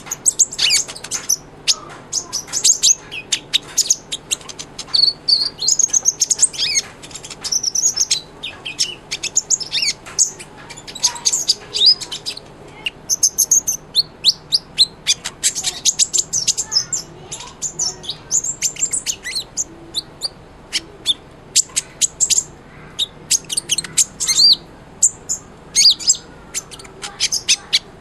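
Sunbird (the 'kolibri ninja' of Indonesian bird-keepers) singing vigorously: a rapid, continuous stream of high-pitched chirps, twitters and short trills.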